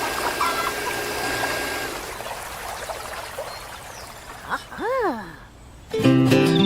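Water trickling and pouring as a steady hiss that fades over the first four seconds, with faint music under it. About five seconds in comes a short pitched sound that rises and falls, and about a second later music starts loudly.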